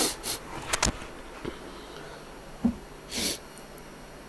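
Handling noises as a laptop charger is connected: a few sharp clicks and short breathy hisses, one at the start and one about three seconds in.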